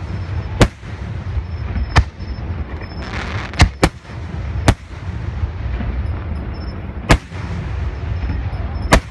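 Fireworks shells bursting: seven sharp bangs at irregular intervals, two of them close together near the middle, over a steady low rumble.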